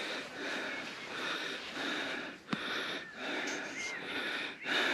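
A person breathing hard, panting from a steep uphill hike in a run of wordless breaths about half a second each, with a sharp click about halfway through.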